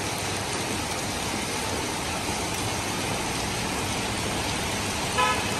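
Heavy rain falling steadily on the street and rooftops, an even hiss. A brief pitched sound comes about five seconds in.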